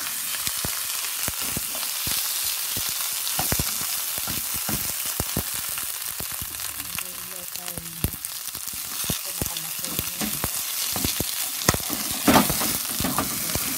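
Rice and bacon stir-frying in a nonstick frying pan: a steady sizzle with frequent clicks and scrapes of a spatula stirring and pressing the rice against the pan, louder for a moment near the end.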